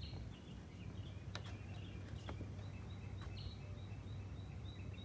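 Birds chirping outdoors: short high calls, turning into an evenly repeated note about three times a second in the second half, over a steady low background rumble. A couple of faint sharp clicks.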